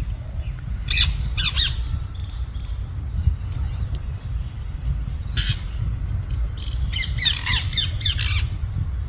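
Parrots squawking in short harsh calls as they scuffle, a few scattered calls and then a quick run of squawks near the end, over a steady low rumble.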